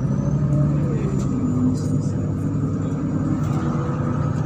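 MAZ-103 city bus driving, heard inside the cabin: a steady rumble of engine and drivetrain, with a whine that rises and then falls in the first second.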